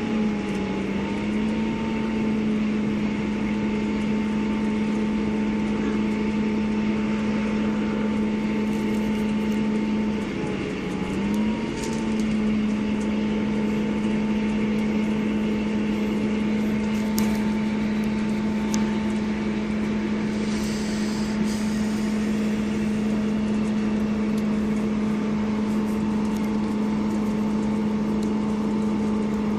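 Diesel engine of a Class 158 diesel multiple unit running at steady revs, a constant pitched drone over running noise. The note drops as it begins, dips briefly about ten seconds in, then holds steady.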